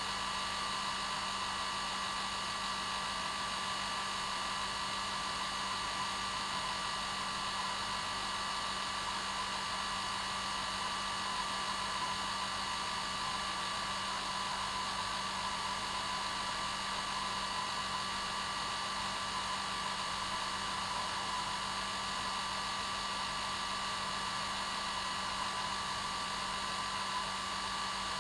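Hair dryer running steadily on one setting, a constant whooshing hiss with a steady motor whine, with no change in speed.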